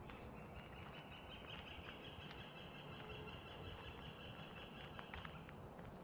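A bird's high, steady trill held for about five seconds, starting just after the beginning and stopping near the end. Beneath it are irregular footsteps on a dirt path and a low background rumble.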